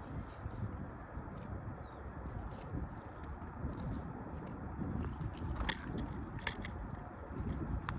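Birds pecking and crunching feed close to the microphone, with a few sharp taps in the second half. Behind it a songbird sings twice, each song a high whistle sliding down into a quick trill.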